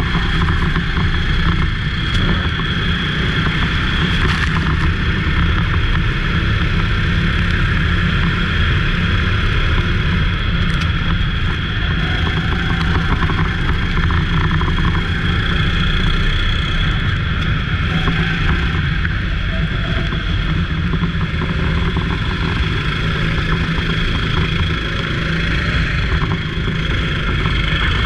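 Go-kart engine running at race speed, a steady loud drone with a low rumble underneath.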